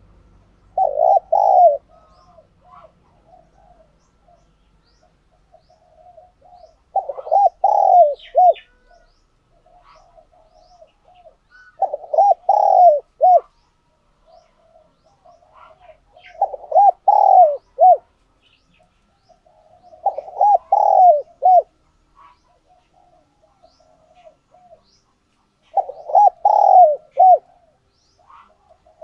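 Spotted dove cooing: six loud coo phrases, each about a second and a half long, every four to five seconds, with softer low coos in between.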